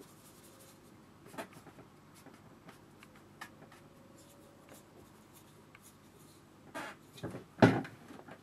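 Paintbrush dabbing and stroking on watercolour paper, a faint scratchy sound with scattered light ticks. Near the end come a few louder knocks, one of them sharp and loud.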